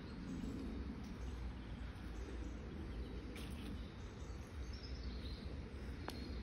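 Outdoor ambience: a steady low background noise with a few faint bird chirps about five seconds in.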